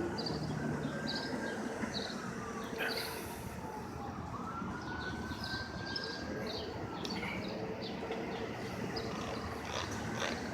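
A distant emergency-vehicle siren wailing, its pitch slowly falling, then rising and falling again, over steady city traffic noise, with small birds chirping.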